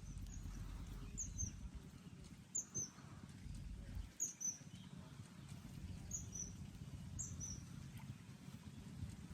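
A small bird calling: a short, high two-note chirp repeated about six times, a second or two apart, over a low steady rumble.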